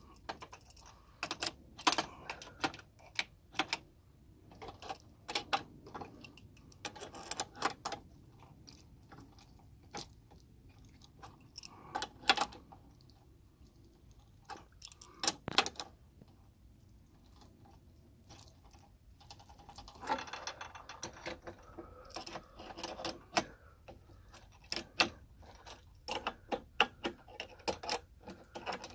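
Irregular metallic clicks and clinks of tools and metal fittings being handled, with a denser stretch of rattling and light ringing about twenty seconds in.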